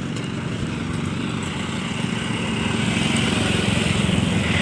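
A small engine running with a fast, even pulse, growing louder over the last couple of seconds as it comes nearer.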